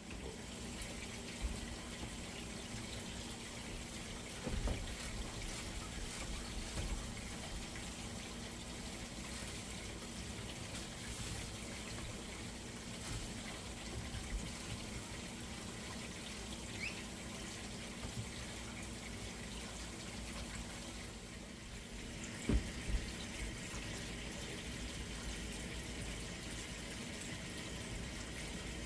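Water running steadily from a tap, with a couple of short knocks about four seconds in and again near 22 seconds.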